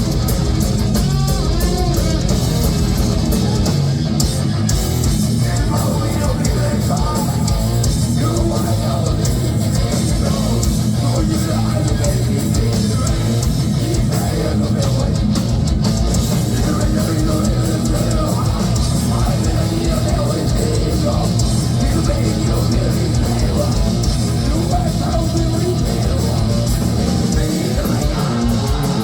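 Heavy metal band playing live: distorted electric guitars and bass over dense, fast drumming, at a steady loud level.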